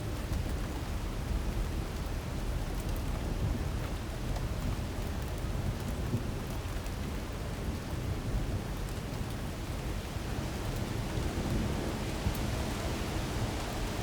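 Heavy rain pouring steadily during a thunderstorm with strong wind, a constant low rumble under scattered patter of drops.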